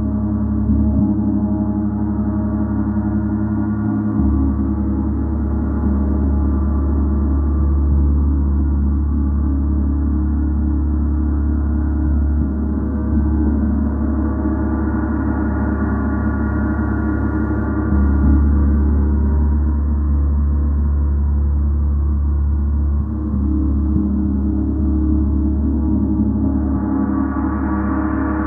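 A gong played continuously in a deep, sustained wash of overlapping tones, swelling every few seconds as it is struck softly again. It grows brighter near the end.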